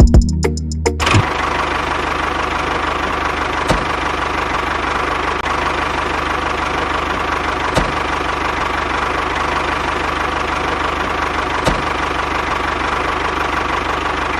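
Music with a beat for about the first second, then a small motor running steadily with a fine, rapid rattle and a faint click about every four seconds.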